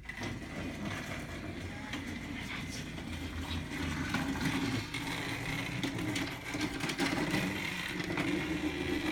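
Toy train running along its track: a steady whirring with a rattle from the wheels and track.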